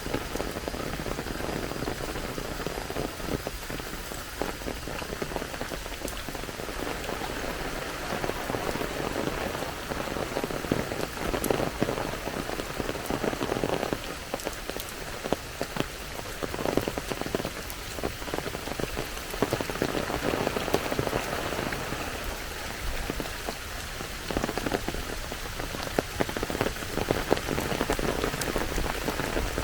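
Steady rain falling, with many individual drops ticking close by over the continuous hiss.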